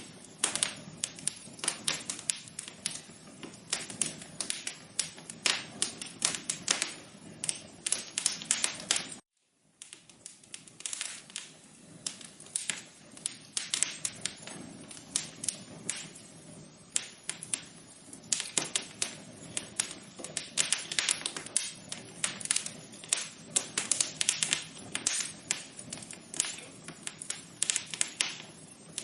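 Wood fire crackling: dense, irregular pops and snaps over a low hiss, with a brief silent gap about nine seconds in.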